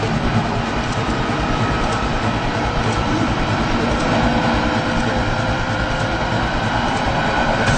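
High-speed electric train accelerating at low speed: steady rolling and running noise of the wheels on the rails, with a faint whine that rises slightly in pitch as it picks up speed.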